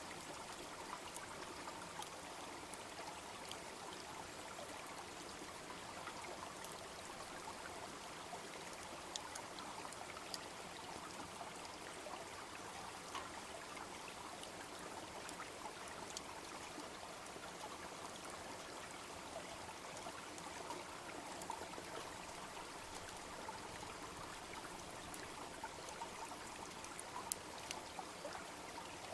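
Small brook babbling steadily, with scattered crackles and pops from a wood bonfire over it; one sharper pop near the end.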